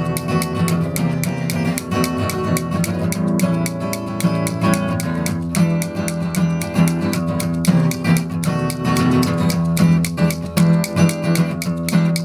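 Acoustic guitar music, strummed and plucked in a quick, busy rhythm.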